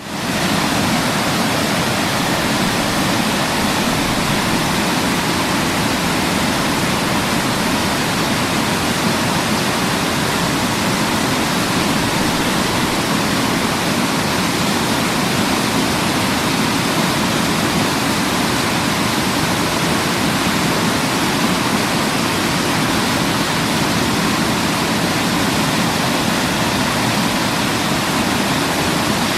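Waterfall: a steady, even rush of falling water that fades in quickly at the very start and then holds level.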